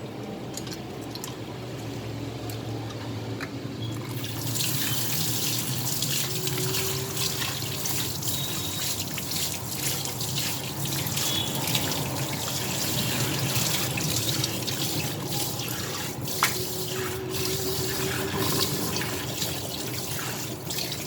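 Kitchen tap running into a sink while hands and the sink are washed clean after handling raw chicken. The water gets louder and splashier about four seconds in, with small knocks of hands and utensils in the sink.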